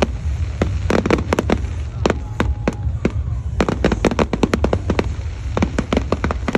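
Fireworks going off: rapid volleys of sharp bangs and crackles, thinning out for a second or so in the middle before coming thick and fast again, over a steady low rumble.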